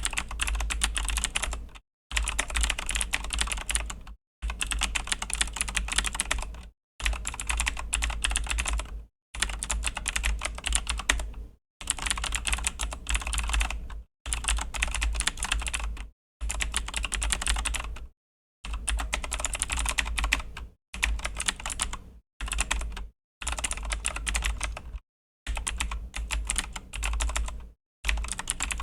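Fast typing on a Razer BlackWidow V3 mechanical keyboard with Razer Green clicky switches. The keystrokes come in dense runs of a couple of seconds each, with brief silent pauses between them.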